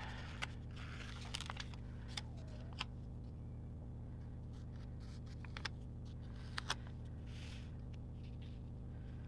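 Sticker sheets and paper stickers being handled and layered on a planner page: scattered small clicks and taps, with a brief soft rustle near the end, over a steady low hum.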